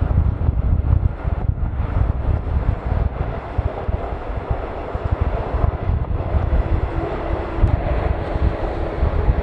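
Jet airliner taking off: a steady roar of jet engines with a deep rumble, and wind buffeting the microphone.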